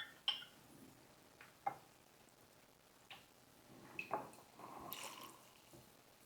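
A few faint, separate taps and clicks of utensils against a soup bowl, with soft wet squishing as saimin noodles in broth are moved about.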